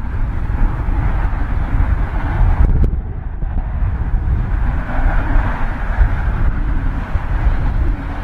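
Jet noise from a Boeing 737-800's CFM56 turbofans as the airliner comes in to land, a steady roar mixed with heavy wind buffeting on the microphone.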